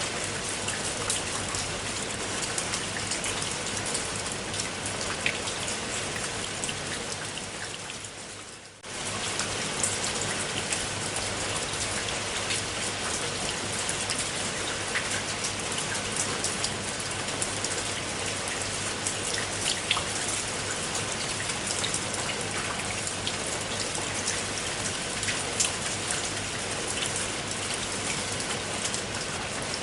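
Steady rain falling, a dense hiss with many individual drops ticking on a surface. About eight seconds in it fades down briefly and comes straight back to the same level.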